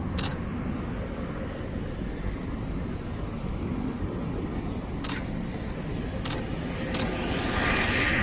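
Kawasaki T-4 jet trainers' twin turbofans on approach: a steady low rumble, with the engine whine and hiss swelling from about seven seconds in as the jets draw closer. A few short sharp clicks sound over it.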